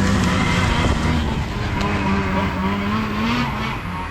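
Two-stroke snowmobile engine running, its pitch wavering up and down, then easing off a little near the end.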